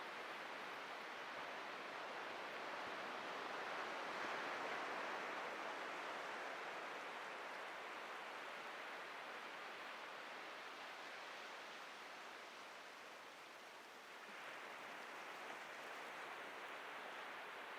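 Atlantic surf washing onto the beach: a continuous hiss of breaking waves that swells and eases, dipping briefly about three-quarters of the way through before building again.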